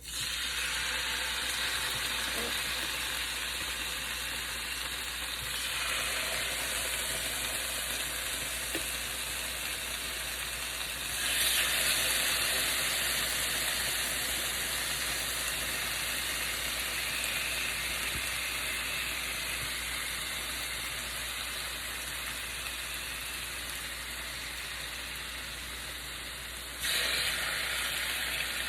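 Marinated chicken thigh skewers sizzling in hot olive oil in a skillet. The sizzle is a steady hiss that suddenly grows louder about 11 seconds in and again near the end.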